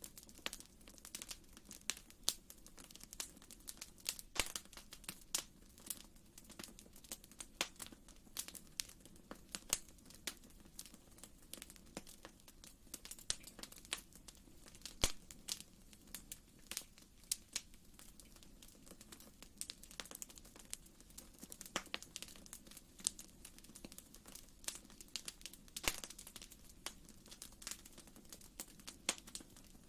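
Wood fire in a fireplace crackling: irregular sharp snaps and pops, several a second, over a soft steady low rumble of the flames.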